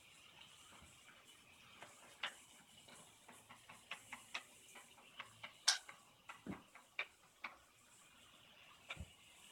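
Toy train set being played with: scattered light clicks and taps of hard pieces, at an uneven pace, with the sharpest click about halfway through and a dull knock or two.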